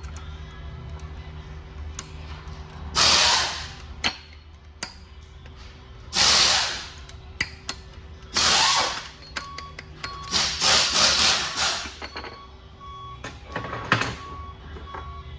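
Power tool run in short bursts of hissing noise, each about half a second to a second and a half long, over a steady shop hum. A repeated short beep comes in during the second half.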